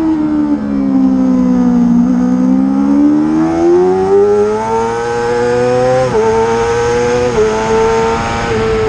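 Racing motorcycle engine dropping in pitch as it slows for a corner, then rising steadily under acceleration, with two quick dips in pitch about six and seven and a half seconds in at gear changes before it holds a high, fairly steady note.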